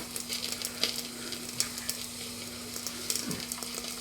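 Electrically heated boiler of an Empire B43 toy steam engine sizzling and crackling with scattered small ticks as the water inside heats toward the boil, over a faint steady hum.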